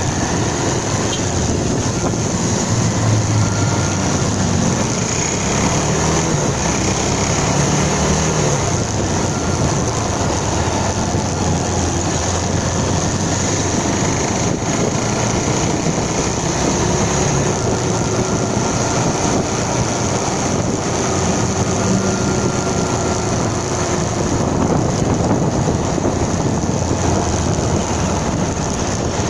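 Motorcycle running while being ridden, its engine note low under a steady rush of wind noise on the microphone.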